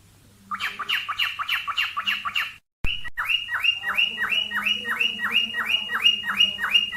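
Cockatiel courtship call: a fast run of short downward-sliding chirps, about six a second, starting about half a second in, with a brief complete drop-out near the middle before the run carries on.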